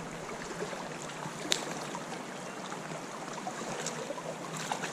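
Spring creek water running steadily, with one sharp click about a second and a half in and a few small ticks near the end.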